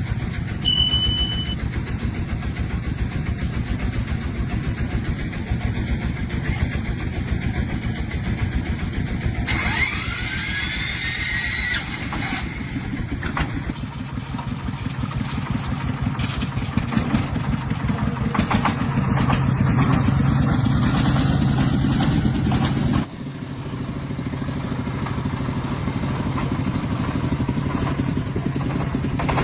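An engine starts and keeps running steadily, with a high squeal rising and falling about ten seconds in. Just past twenty seconds it suddenly drops to a quieter level and runs on.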